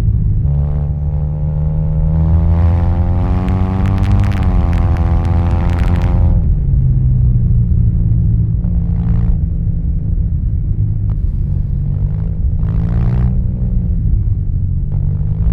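Suzuki Burgman 650 scooter's parallel-twin engine through a Yoshimura R77 carbon full-system exhaust, heard on board while riding. The exhaust note climbs under throttle for a few seconds, then drops back to a lower, steady drone about six seconds in. There are two shorter throttle rises later.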